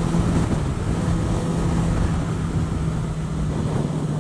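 Yamaha XJ6F motorcycle's inline-four engine running at a steady cruise, with wind noise over the microphone.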